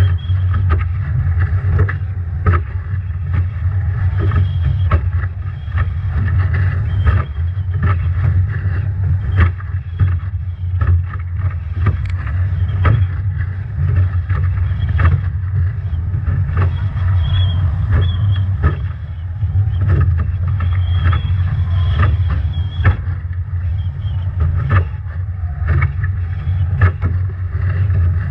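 Strong wind buffeting the onboard microphone of a Nacra 17 foiling catamaran sailing upwind, with a constant low rumble. Waves and spray slap the boat in many sharp hits, and a faint high whistle comes and goes.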